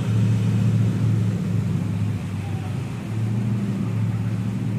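Vehicle engine running with a steady low hum that eases off briefly about two seconds in, as traffic works through the floodwater on the road.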